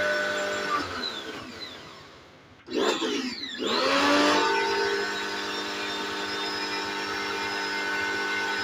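Small electric motor whining steadily, then winding down in falling pitch for nearly two seconds until almost quiet, and started again suddenly about halfway through, rising back up to its steady whine.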